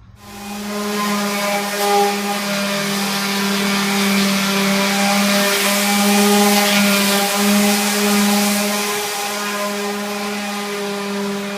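Homemade electric paint mixer starting up and running steadily with a constant motor whine, stirring a bucket of old oil-based paint.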